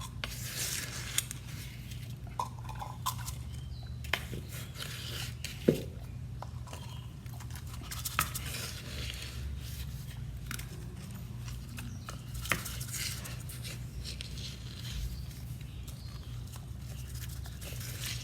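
A spoon scraping and clinking as sea-salt scrub is scooped into a jar: scattered sharp clicks and short gritty scrapes.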